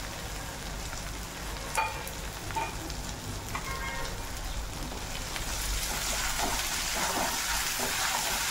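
Onion, turmeric and green chilli-garlic paste sizzling in hot oil in a kadhai, with a few light clinks of a steel spoon on the pan in the first half. The sizzle grows louder about halfway through as the mixture is stirred.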